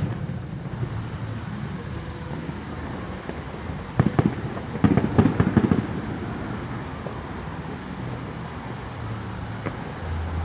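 Fireworks going off: two sharp bangs about four seconds in, followed by a quick run of crackling pops lasting about a second, over a steady low background rumble.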